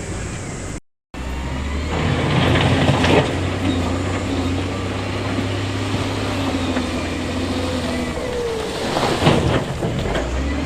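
Heavy diesel earthmoving machinery running with a steady low engine drone, louder and rougher around two to three seconds in and again near the end. The sound drops out briefly about a second in.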